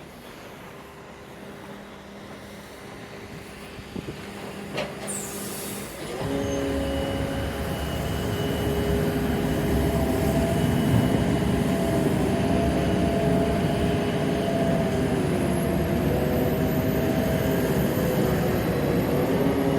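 Freight train with spoil wagons: the locomotive's engine gets clearly louder about six seconds in, then runs on steadily, with several steady tones over a heavy low rumble. A faint high whine joins in the last few seconds.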